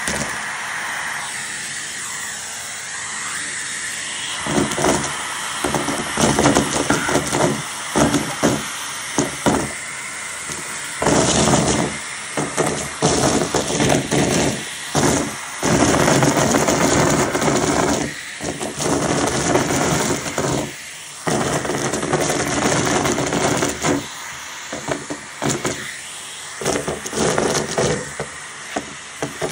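A Numatic Hetty cylinder vacuum cleaner running with a steady motor whine and hiss, its sound surging up and dropping back irregularly many times as it is worked.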